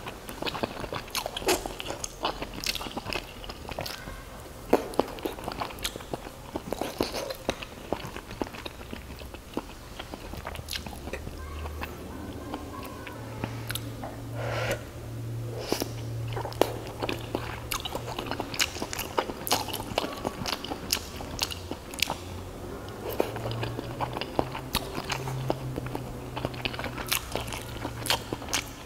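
A person biting and chewing fried crab meatballs in sauce close to the microphone: irregular crunchy, wet bites and chewing strokes with a few sharp clicks.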